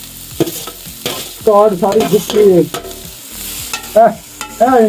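Onions and tomatoes frying in a metal pot on a gas burner: a steady sizzling hiss, with a metal utensil stirring and clicking against the pot. A voice speaks briefly in the middle and again near the end, louder than the frying.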